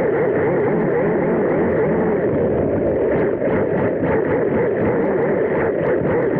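Small RC car's brushless motor and drivetrain whining, the pitch wavering up and down with the throttle, with scattered knocks and rattles from the chassis about halfway through.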